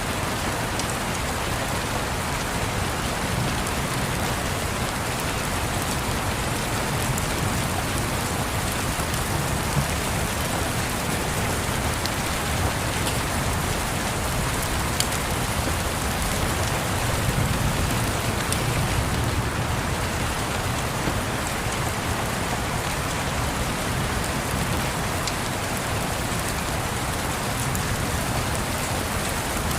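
Steady rain on a surface, an even hiss with a few sharp ticks scattered through it, over a low rumble that swells slightly about halfway through.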